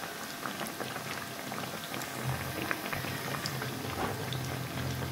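Crumbed bread-and-potato snacks frying in hot oil in a pan: a steady sizzle full of small crackling pops. A low hum joins in about two seconds in.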